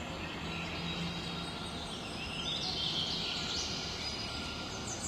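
Steady hiss of rain with birds chirping, with a cluster of bird calls sweeping up and down about halfway through.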